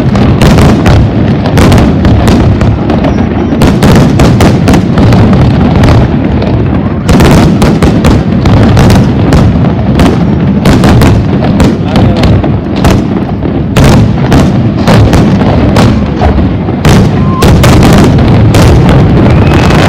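Aerial fireworks shells bursting in a rapid, continuous barrage, the bangs and crackles coming many to the second and very loud.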